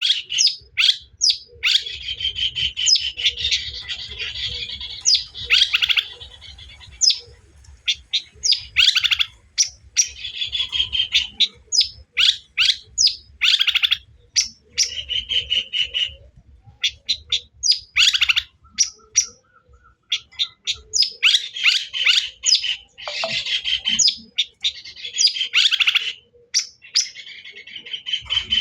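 Long-tailed shrike (cendet) singing a fast, harsh chatter of scratchy notes and buzzy trills, broken by short pauses. It is a lure song meant to rouse other shrikes.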